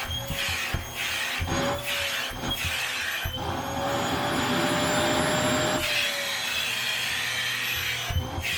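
Vacuum cleaner running while its nozzle is pushed back and forth across a cat-hair-covered blanket, its motor a steady whine under the rubbing strokes. For a couple of seconds in the middle the sound grows fuller and the whine rises slightly in pitch.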